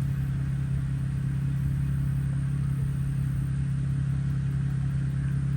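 Jeep engine running steadily, a constant low hum with road or wind noise under it.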